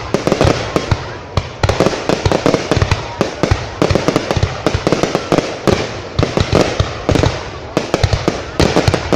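Fireworks display: a dense, continuous barrage of bangs and crackling reports, many a second, in clusters with brief dips between them.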